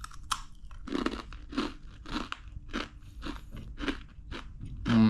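Close-up chewing of a crunchy savory Diwali snack: a steady run of crisp crunches, a little under two a second. A short voiced hum near the end.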